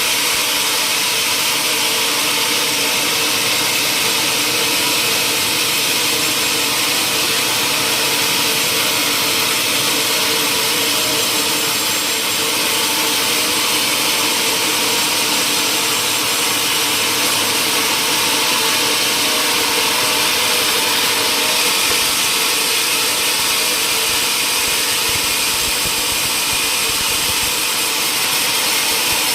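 Sawmill machinery running steadily, a loud even rushing noise with a few faint steady hums underneath.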